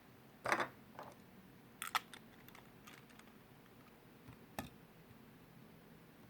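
Several separate light clicks and taps from a fountain pen being handled, not written with. There is a louder cluster about half a second in, a sharp double click about two seconds in, and a last click a little past four and a half seconds.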